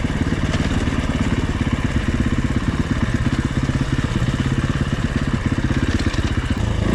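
Dirt bike engine running steadily under way, its rapid firing pulses even throughout, with wind rush over it.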